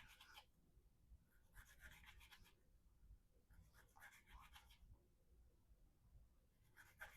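Faint scratchy rasps of a Spyderco Endura 4's VG-10 blade slicing through rope, about four cuts roughly two seconds apart, each about a second long.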